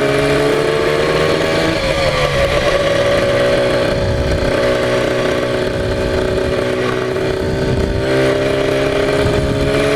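Air-cooled conversion of a Yamaha TZR250 1KT two-stroke engine running on a test ride, its note climbing slowly, dipping briefly about two seconds in, then climbing steadily again.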